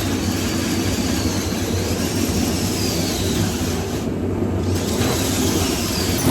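A machine running steadily, with a low hum under a broad hiss and faint whines that rise and fall.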